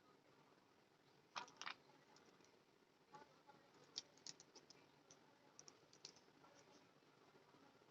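Faint, scattered clicks and light taps: a close pair about a second and a half in, then a string of small irregular ticks.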